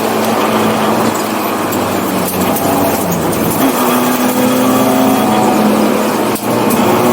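1984 BMW 318i's four-cylinder engine running hard on track, loud and steady under tyre and wind noise. Its note firms up partway through, and there is a brief dip in level about six seconds in.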